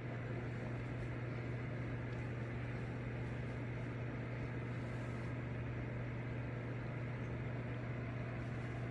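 Steady low hum under an even hiss, unchanging throughout with no sudden sounds.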